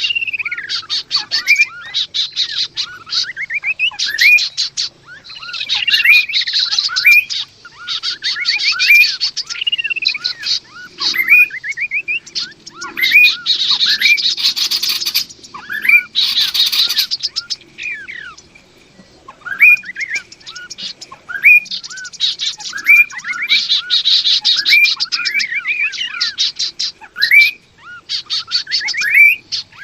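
Male and female kaso-kaso birds calling. Fast rattling trills alternate with short slurred whistles that rise and fall, repeated over and over with brief pauses.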